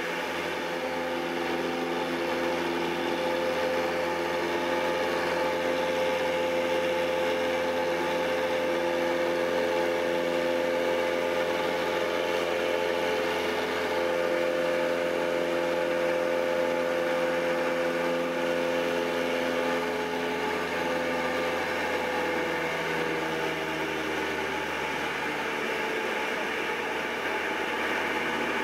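Cessna 172's piston engine and propeller droning steadily, with a slight drop in pitch about three-quarters of the way through.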